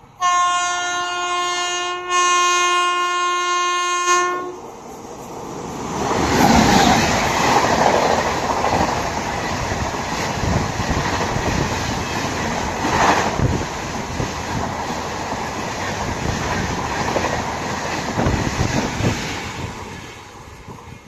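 Indian Railways locomotive horn sounding two long blasts, then an express train passing at speed, its wheels clattering over the rail joints, the noise dying away near the end.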